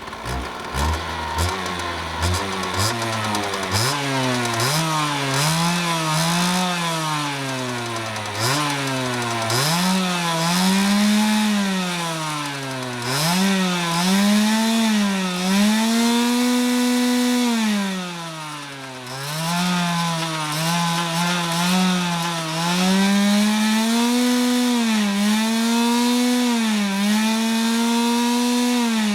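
Motocross dirt bike engine being revved over and over, its pitch climbing and falling every second or two, with longer revs held high later on.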